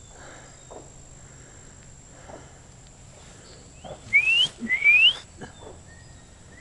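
Two loud rising whistles, each about half a second long, one right after the other a little past the middle, then a faint short whistle near the end.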